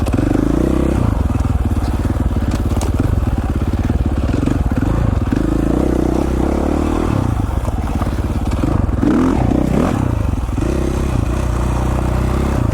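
2017 KTM 450 XC-F dirt bike's single-cylinder four-stroke engine running while riding a trail, the revs rising and falling with the throttle.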